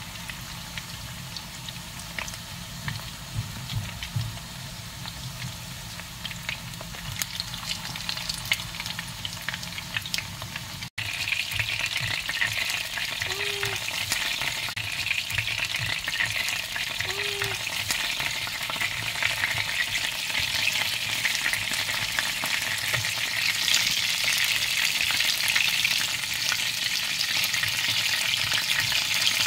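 Battered chicken drumsticks shallow-frying in hot oil in a pan: a steady crackling sizzle, with occasional clicks of metal tongs as the pieces are turned. About eleven seconds in, after a momentary break, the sizzle comes in louder and brighter and keeps building toward the end.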